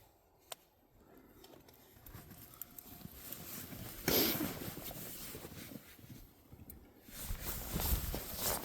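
Footsteps and clothing rustle of a person walking outdoors, after a single sharp click about half a second in. A low rumble joins near the end.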